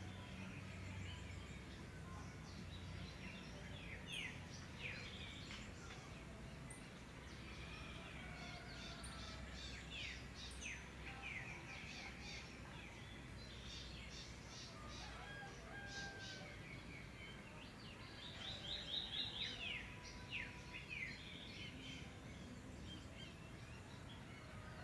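Several wild birds calling together in a chorus of short chirps and quick falling whistles, with a fast run of repeated notes about three-quarters of the way through. A steady low rumble lies underneath.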